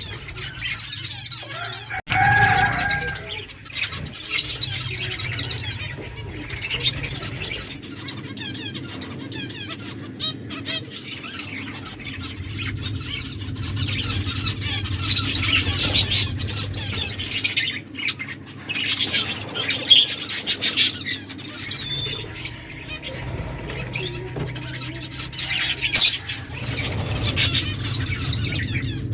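Small pet finches chirping with many short, high calls, with bursts of wings fluttering among them.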